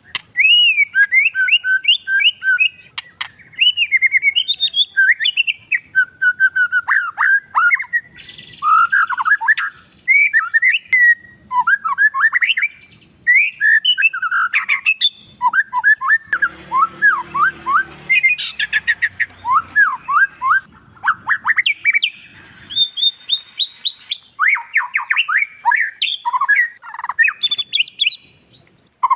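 Oriental magpie-robin (kacer) singing: a long, varied song of fast whistled and chattering phrases, broken by short pauses.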